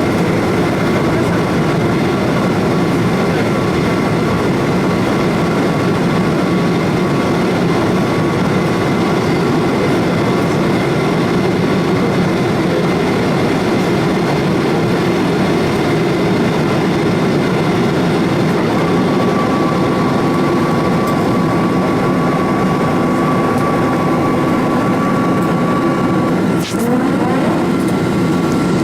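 Boeing 777-200ER jet engines running steadily at high power after take-off, a constant loud noise with a few steady whining tones. About 27 s in there is a brief dip with a click.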